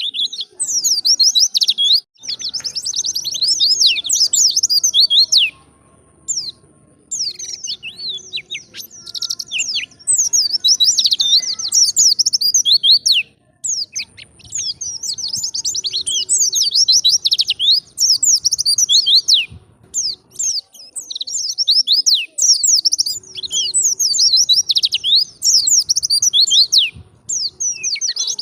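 White-eye (pleci) singing: long runs of rapid, high-pitched twittering warble, broken by several brief pauses.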